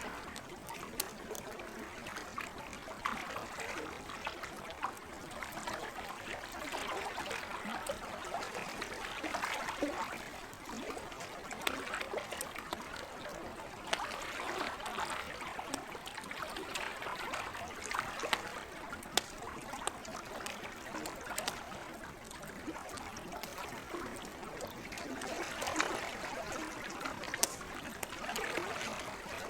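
Wood campfire crackling, with frequent sharp pops, over the gentle sound of lake water that swells and eases every few seconds.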